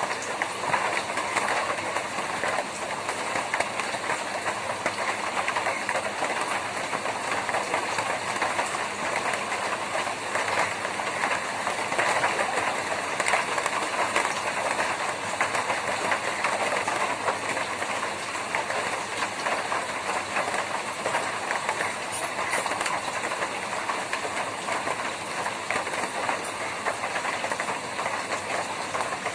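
Steady rain falling on a tin roof: a dense, even patter of drops on the metal.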